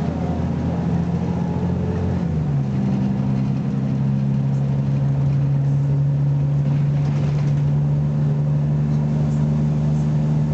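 BMC Belde 220-SLF city bus engine pulling under load. There is a shift in engine pitch about two seconds in, then a steady, slightly louder run.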